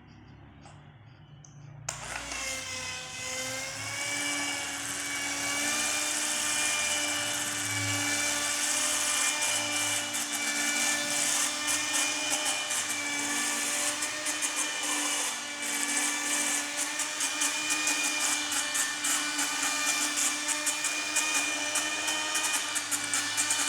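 Small DC motor spinning a toy helicopter's propeller. It starts about two seconds in with a whine that rises in pitch, then runs on as a steady high whine with a fast flutter.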